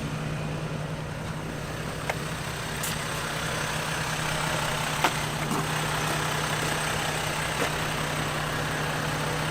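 Air compressor running steadily with a low hum, airing up vehicle tires; a couple of faint ticks.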